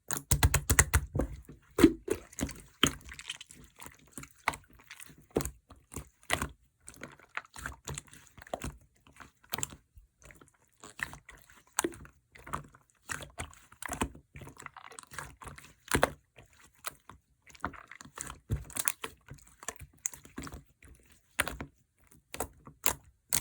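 Slime being squished and pressed by hand, making irregular wet clicks and small pops.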